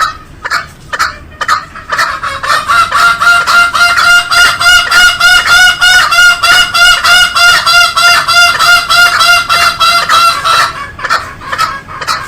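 Green junglefowl calling: a few short separate calls, then a long run of rapid, evenly repeated pitched notes, about four a second, which stops about eleven seconds in.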